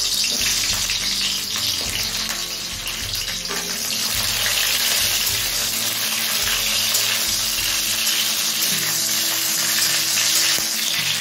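Cauliflower florets sizzling steadily as they fry in hot oil in a metal kadai, stirred with a metal spatula.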